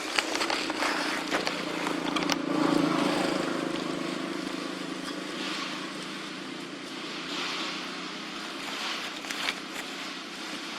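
A motor engine humming steadily, loudest about three seconds in and then easing off, with a few sharp clicks and outdoor rustle over it.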